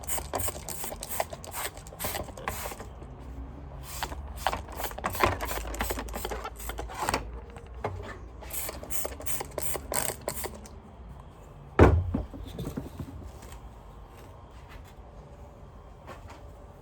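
Quick runs of clicks and scrapes from vacuum cleaner parts being worked on by hand, with one loud knock about twelve seconds in.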